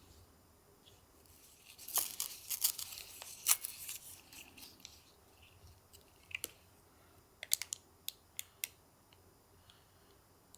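Paper or wrapping being torn and crinkled: a dense run of sharp crackles for about three seconds, then a few scattered single crackles.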